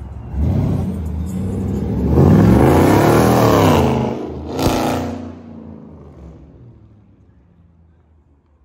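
Car engine revving up and easing back down, with a sharp click partway through. The sound then fades away to near silence.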